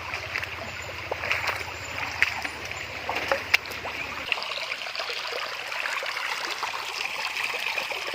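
River water rushing and splashing over rocks, with many small splashes and trickles. A low hum runs underneath and stops abruptly about four seconds in.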